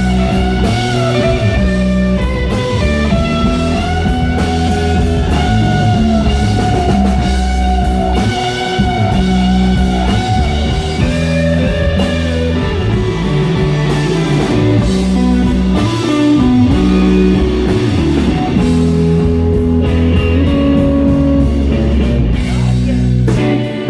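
A live rock band playing an instrumental passage of a bluesy rock song: a guitar plays a lead line of wavering, bent notes over bass and drum kit.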